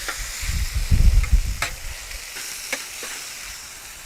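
Cut-up chicken breast sizzling in oil and butter on a hot griddle pan, with a few sharp clicks as it is stirred and a low rumble in the first two seconds.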